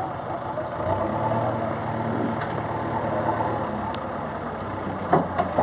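Bulldozer's diesel engine running steadily, its low hum getting louder about a second in.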